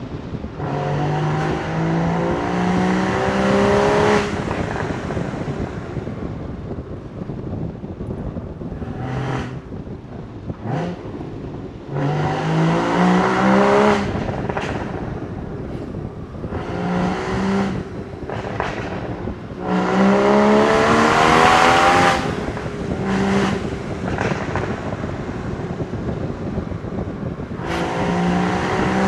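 Porsche Boxster Spyder 981's flat-six engine and exhaust pulling hard several times, its note climbing in pitch on each pull, with lifts off the throttle in between. Wind rushes over the car throughout, and there are a few sharp cracks.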